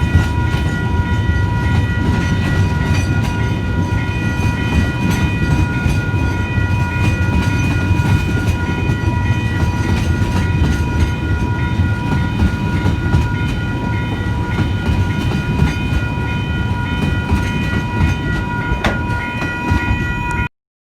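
Loaded coal train rolling past: a heavy, steady rumble with wheel clicks over the rail joints, under a steady high ringing tone. It all cuts off suddenly near the end.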